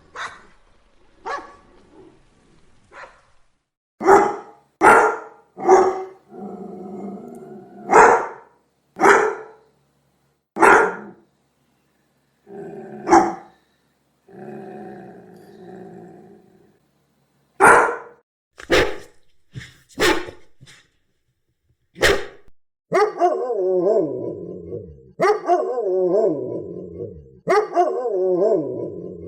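Angry dog barking in single sharp barks with pauses between them, and low growling in a few of the gaps. Near the end the barks turn into longer calls that fall in pitch, coming every couple of seconds.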